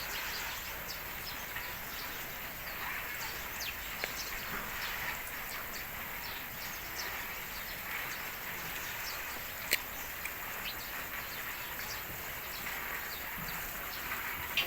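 Steady rain falling, with many small drop ticks scattered through it and a single sharp click about ten seconds in.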